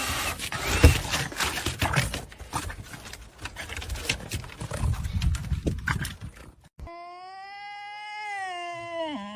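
An animal's long, drawn-out cry, held at one pitch and dropping near the end, coming in after several seconds of clattering and rustling noise.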